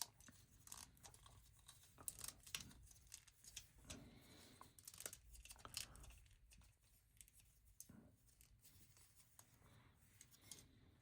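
Faint, irregular clicks and rustling of plastic LEGO pieces being handled and sorted during a build.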